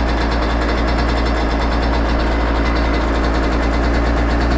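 Yamaha YZ125 single-cylinder two-stroke engine idling steadily, warmed up, at about 3,000 to 3,500 rpm.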